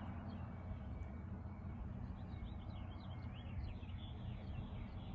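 Birds chirping outdoors: a quick run of short high chirps from about two seconds in, over a steady low rumble.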